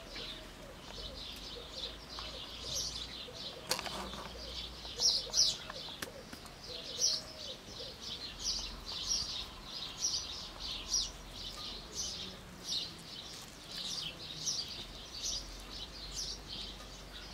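Small birds chirping over and over, short high chirps about one or two a second, with a single knock about four seconds in.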